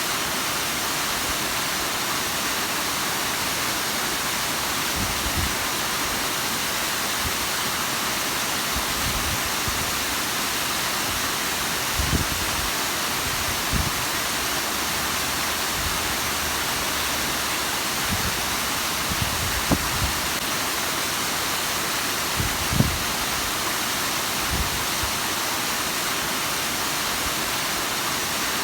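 Bigăr waterfall running: a steady rushing hiss of falling water. A few brief low thumps come through it around the middle of the stretch.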